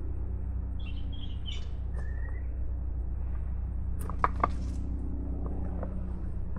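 Small birds chirping in short high notes, with a brief rising whistle, over a steady low rumble. About four seconds in come two sharp clicks or snaps, the loudest sounds.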